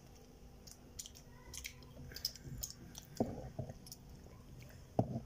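Children chewing and biting soft fruit cake, with faint mouth clicks and two short low knocks about three and five seconds in.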